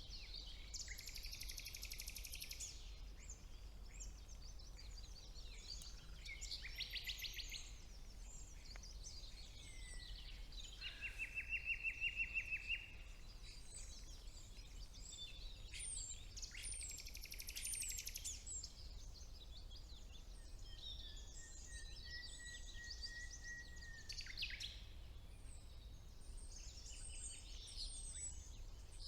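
Birdsong with common nightingale singing: bursts of rapid trills, a loud series of quickly repeated notes about eleven seconds in, and a long held whistle later on, with scattered chirps in between over a faint low background rumble.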